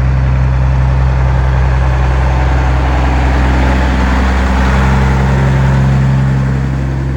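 A truck's diesel engine idling, loud and steady, with a deep low note that shifts slightly about halfway through.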